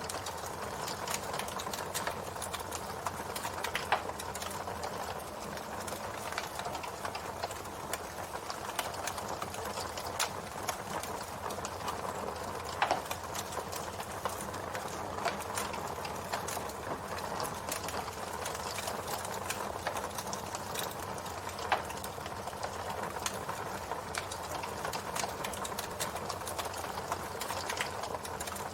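Wood campfire burning, with dense, steady crackling and a few louder pops, about 4, 13 and 22 seconds in.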